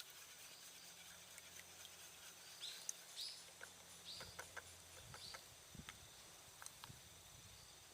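Near silence with a few faint, short bird chirps dropping in pitch, scattered between about two and a half and five and a half seconds in, and some small clicks.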